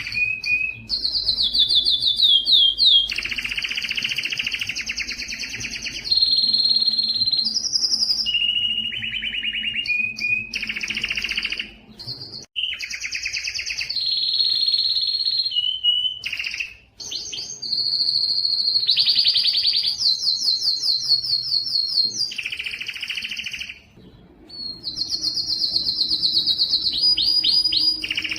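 Spanish timbrado canary singing a long song of rapid rolled trills and held high notes, switching phrase every second or two, with short breaks about 12, 17 and 24 seconds in.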